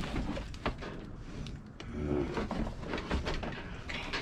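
Rummaging inside a dumpster: boxes and plastic totes being shifted and pushed aside, with scattered knocks, scrapes and rustles.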